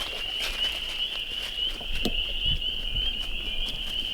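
Spring peepers calling in full chorus: a steady mass of overlapping high peeps.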